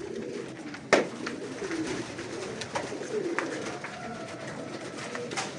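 Domestic pigeons cooing, low gliding calls one after another, with a sharp knock about a second in and a few lighter taps.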